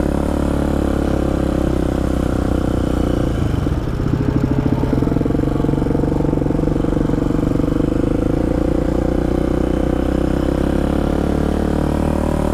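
Polaris Predator 500 quad's single-cylinder four-stroke engine, fitted with a stage 3 jet kit, running steadily at low trail speed in first gear. The engine note changes briefly about four seconds in, then runs on steadily.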